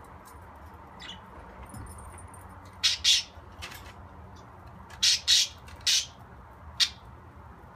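Pet budgerigar giving short, sharp chirps and squawks in quick pairs, the loudest about three seconds and five seconds in.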